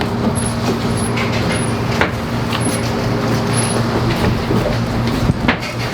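A steady low mechanical hum with scattered light clicks and knocks.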